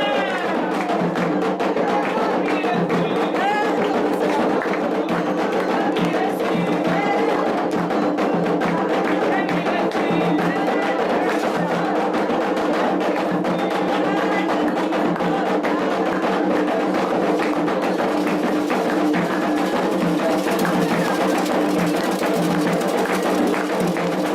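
Candomblé ceremonial music: hand drums and percussion playing a steady, dense rhythm, with voices singing over it.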